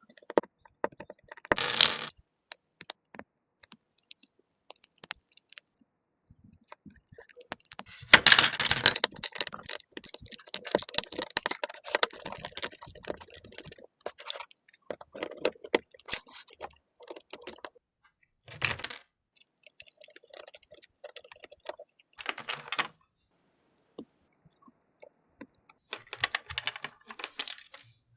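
Plastic LEGO pieces clicking and rattling as they are handled and snapped together, in short irregular flurries with pauses between.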